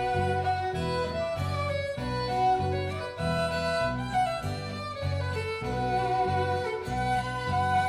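A violin playing a slow melody over a steady low chordal accompaniment: an instrumental passage between sung verses of a song.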